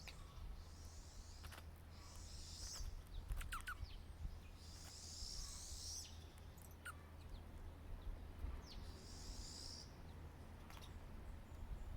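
Small songbirds singing: four high, buzzy trills about a second long, a few seconds apart, with scattered short chirps in between, over a steady low hum.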